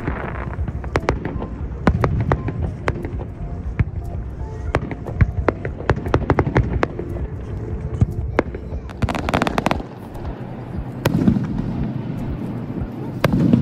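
Fireworks display: shells bursting in a string of sharp bangs and crackles over a low rumble, with a longer hissing burst about nine seconds in.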